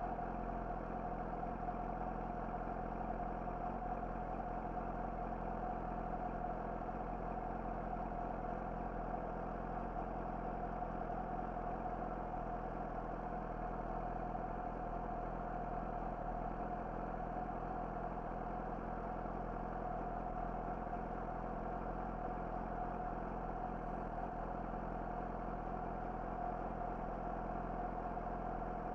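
Yamaha YZF-R6 inline-four with an Akrapovic slip-on exhaust idling steadily, with no revving or change in engine speed.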